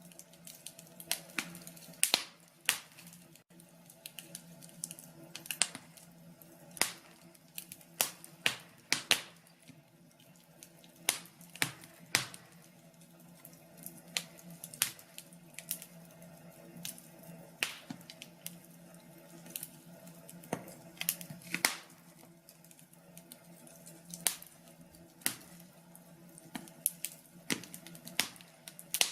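Fire in a fireplace crackling: irregular sharp pops and snaps, about one or two a second, over a faint steady hum.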